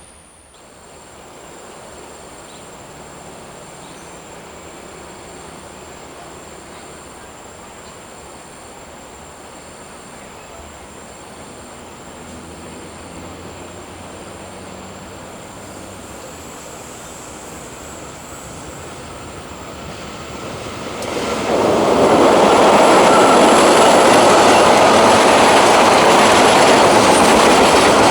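A train approaching, slowly growing louder, then passing close by from about 21 seconds in with the loud, steady noise of its wheels running on the rails.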